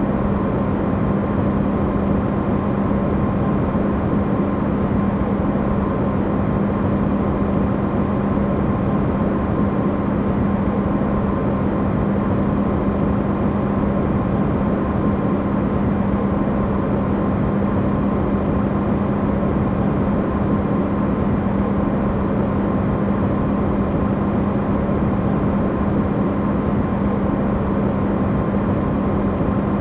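Amplified running sound of an Electrolux side-by-side refrigerator: a steady, unchanging hum and whir of the compressor and fan, with a low drone and a fainter higher tone over a noisy hiss.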